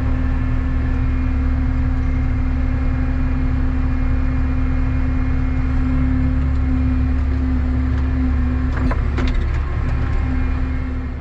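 Combine harvester's diesel engine running steadily, with a few light clicks about nine seconds in.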